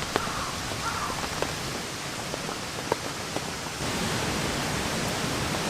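Steady rain falling, with single drops ticking close by now and then; it grows a little louder about two-thirds of the way through.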